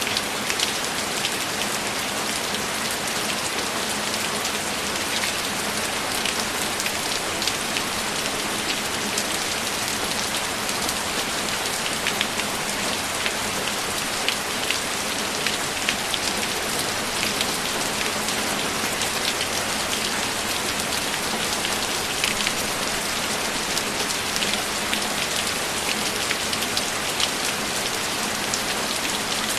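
Steady rain falling, a continuous hiss with many small drop taps scattered through it.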